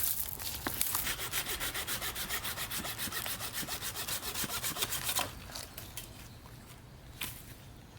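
Hand saw cutting through wood in quick, even back-and-forth strokes, stopping about five seconds in.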